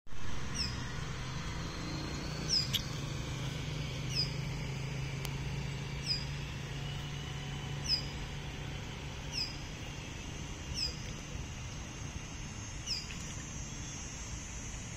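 A bird repeating a short, high, downward-slurred call about every one and a half to two seconds, over a low steady hum that fades out a little past halfway.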